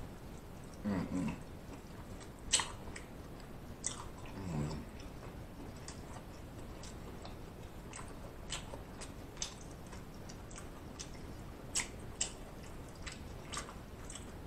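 Close-miked chewing of sauce-dipped lobster tail meat: wet smacks and mouth clicks scattered throughout, with two brief low hums early on and about four seconds in.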